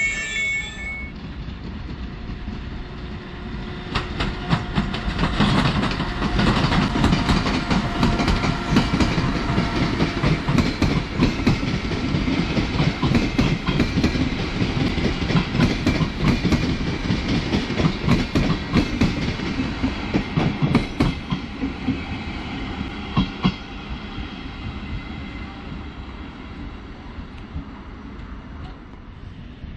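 Koleje Mazowieckie EU47-005 train arriving and rolling past, its wheels clattering over the rail joints. The clatter grows loud about four seconds in and dies away over the last several seconds. A brake squeal from another train fades out in the first second.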